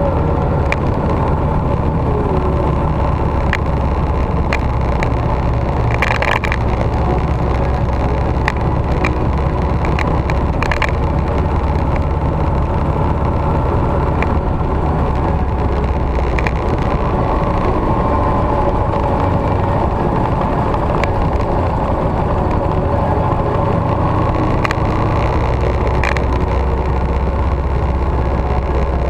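Victory V-twin motorcycle under way: a steady, loud engine and wind rumble with no change in pace, broken by a few scattered clicks.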